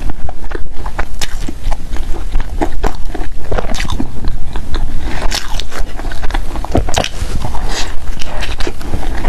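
A person biting and chewing food, with many irregular crunches and crackles.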